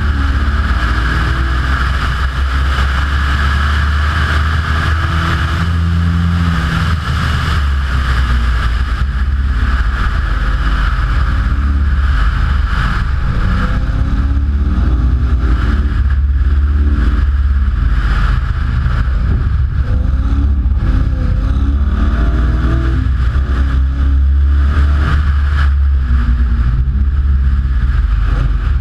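Car engine driven hard on a sprint run, its pitch rising and falling repeatedly as it accelerates, changes gear and lifts for corners, over a heavy steady low rumble.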